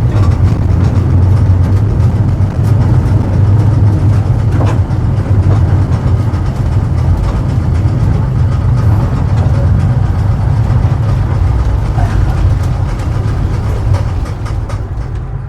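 Vintage tram car running with a steady low rumble, with a few faint clicks and knocks from the car body.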